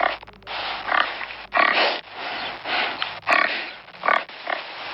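Pig grunting and oinking in a rapid run of short, rough calls, about two a second.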